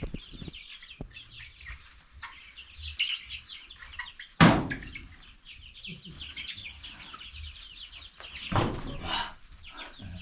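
A flock of young chickens cheeping and clucking in many short, high chirps. About four and a half seconds in there is one sharp, loud knock, and a shorter burst of noise near the end.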